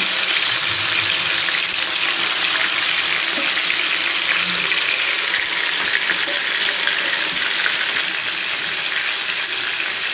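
Marinated prawns, wet with lemon-juice marinade, sizzling steadily as they fry in hot oil in a frying pan.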